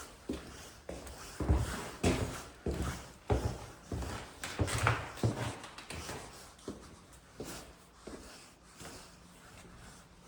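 Footsteps, a thump roughly every half second to second at walking pace, loudest in the first few seconds and fading after about six.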